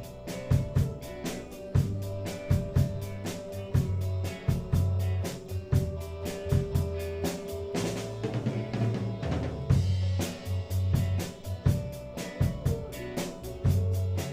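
A band playing an instrumental passage. A drum kit keeps a fast, steady hi-hat pattern with kick and snare hits over a bass line and a held note. The hi-hat drops out for a couple of seconds just past the middle, then comes back.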